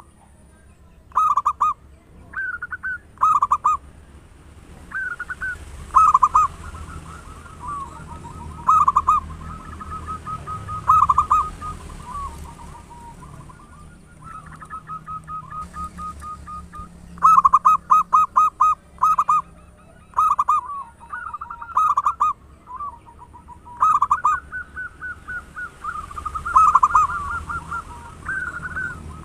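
Zebra dove (perkutut) cooing: repeated phrases of quick, rolling staccato coos every few seconds, over a steady low hum.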